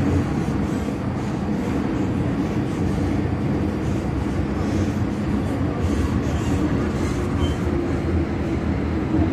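An MTR M-Train electric multiple unit running on the Kwun Tong Line, making steady, even running noise from its wheels and motors.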